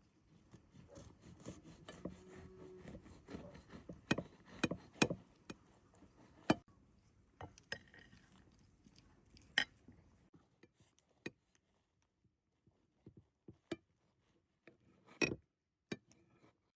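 Irregular sharp clicks and knocks, thicker in the first half and sparser later, with the loudest few about four to five seconds in and again near the end.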